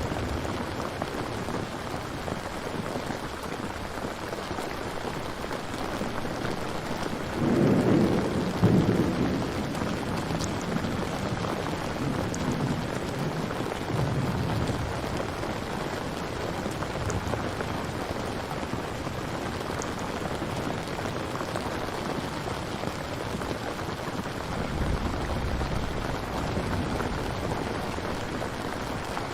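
Steady heavy rain, with a loud rumble of thunder swelling up about eight seconds in and rolling away over several seconds. A second, fainter rumble of thunder comes near the end.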